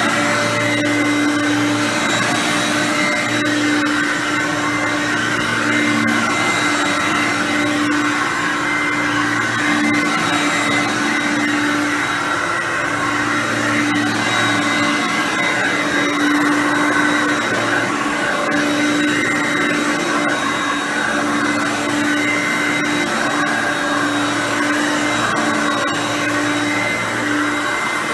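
Hoover Concept One U4219 upright vacuum cleaner running steadily on its normal setting, not power surge: a loud, even motor whine.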